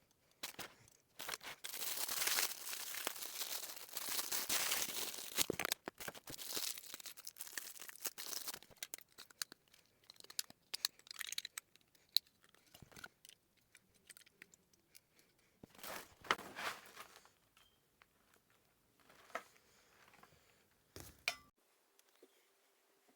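Packaging being handled, crinkled and torn: dense crackling for the first several seconds, then scattered rustles and clicks with a few short louder bursts.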